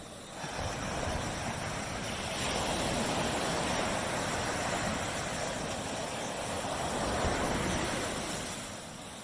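Surf on a tropical beach: a wave breaks and washes up the sand, swelling about half a second in and fading away near the end.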